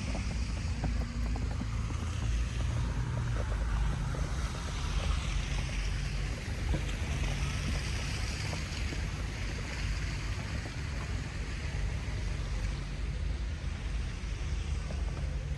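Strong wind buffeting the microphone, a low wavering rumble under a broad rushing hiss.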